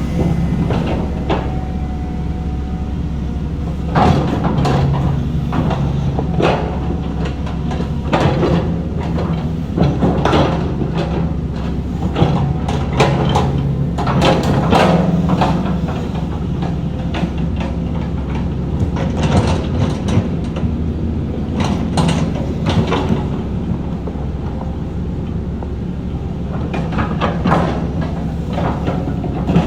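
Heavy diesel earthmoving machinery running steadily, with frequent metallic clanks and knocks from the working equipment.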